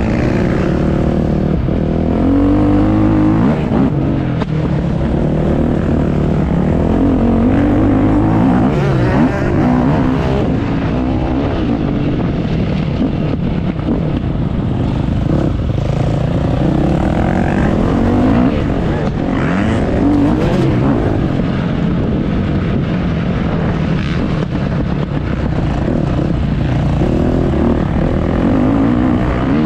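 Motocross bike engines running hard, revving up and down again and again with the throttle and gear changes.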